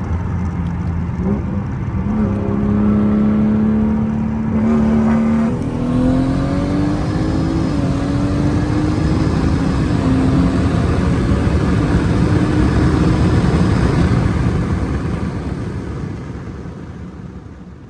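Vehicle engine accelerating hard, its note climbing in pitch several times with drops between the climbs as it shifts, then fading away near the end.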